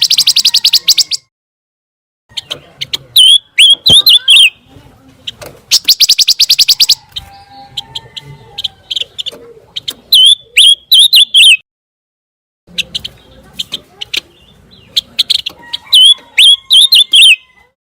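Pancawarna songbird singing: loud, very rapid trills at the start and again in the middle, three phrases of sharp, bending whistled chirps, and softer twittering in between, with two short silent breaks.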